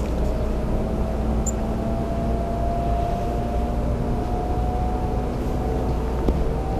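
JR 300 series Shinkansen running at speed, heard from inside the passenger car: a steady low rumble and rushing noise with a faint whine that slowly rises in pitch.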